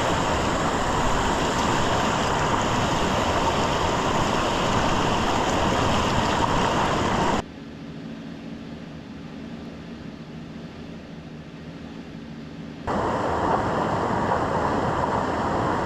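Steady rushing noise of a pickup truck on the move, tyre and wind noise. About seven seconds in it drops abruptly to a quieter low hum, and about five seconds later the louder rush comes back just as suddenly.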